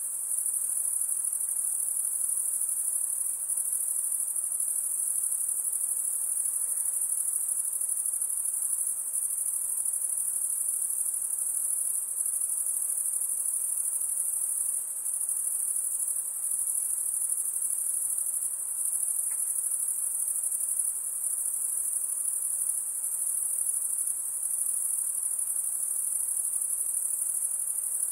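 A steady, high-pitched insect chorus: one shrill, continuous trilling drone that flutters slightly in level and never stops.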